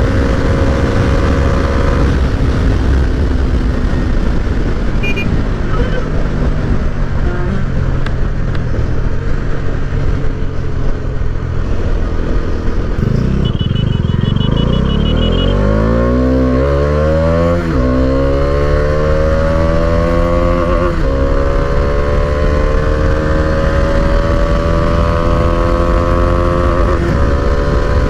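Bajaj Dominar 250's single-cylinder engine running hard on the move, with wind noise. About halfway the revs drop, then climb steeply in rising sweeps, with upshifts a few seconds apart, before a long slow climb in a high gear and another shift near the end.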